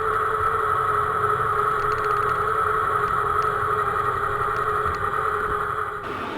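Radio-controlled scale model vehicle running with a steady, engine-like hum that holds two even tones, with faint ticking. The sound changes abruptly near the end.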